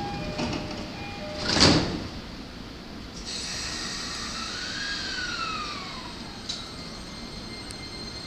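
Two-note door-closing chime of a JR E231 series commuter train, ending about a second in, then the sliding doors shut with a loud thud. About three seconds in, the train's traction equipment starts with a high whine and a tone that rises and then falls as the train begins to pull away.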